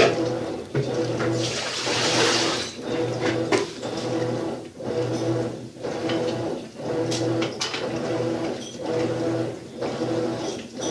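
Maytag washing machine agitating: a motor hum that swells and dips about once a second with each stroke, with water sloshing loudly about two seconds in.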